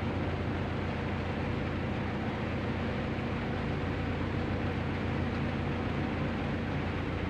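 A motor vehicle running steadily: a low, even engine hum under a constant wash of road noise.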